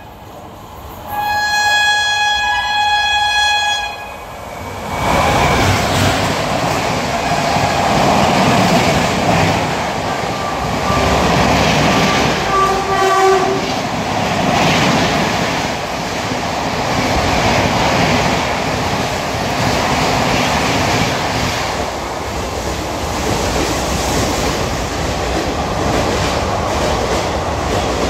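Indian Railways locomotive air horn sounding one sustained blast of about three seconds, then an express train running through the station at speed: a loud steady rush of coaches with the clickety-clack of wheels over rail joints.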